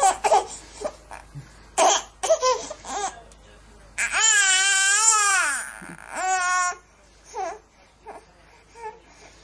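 Baby crying: short fussing cries at first, then a long wail about four seconds in that rises and falls in pitch, a shorter cry right after, and a few faint whimpers near the end.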